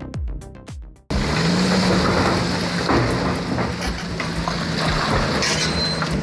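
Electronic music with a thumping beat cuts off abruptly about a second in. It gives way to the steady diesel engine drone of a large O&K RH 30E crawler excavator working in a quarry, with scattered knocks and clatter.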